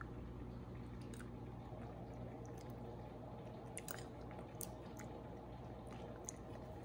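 A person eating soft rice porridge from a metal spoon: quiet chewing and wet mouth sounds with scattered faint clicks, over a steady low hum.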